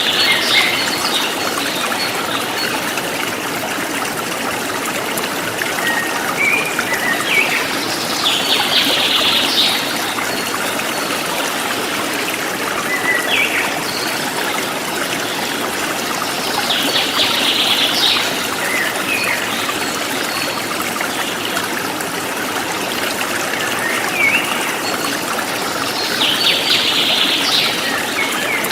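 Forest stream trickling steadily, with a bird giving a quick burst of chirps three times, about every nine seconds, each burst led in by a few short rising notes.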